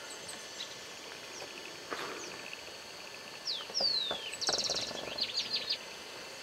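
Wild birds calling: two down-slurred whistles about halfway through, then a fast buzzy trill and a quick run of short high notes, over a steady background hiss.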